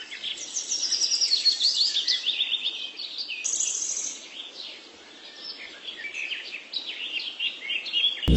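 Birds chirping and trilling, many short rapid calls overlapping, briefly quieter about halfway through.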